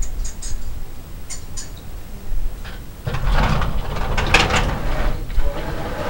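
Birds calling: a few short high chirps in the first second and a half, then a louder, rougher burst of squawking for about two seconds from halfway through.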